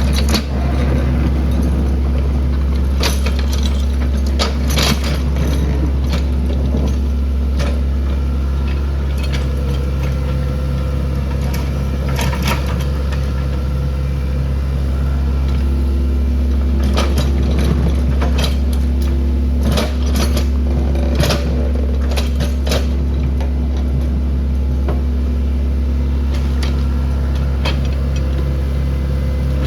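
Excavator engine running steadily under load, with scattered sharp clanks and cracks, typical of demolition debris being crushed and moved.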